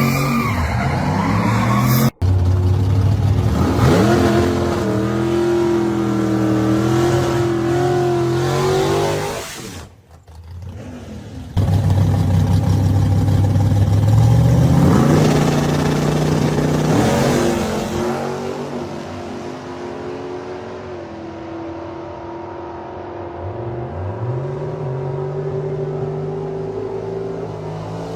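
Muscle-car and hot-rod engines revving and accelerating in a run of short clips, the engine note repeatedly rising and falling. Abrupt cuts break in between clips, with a brief quieter dip about ten seconds in.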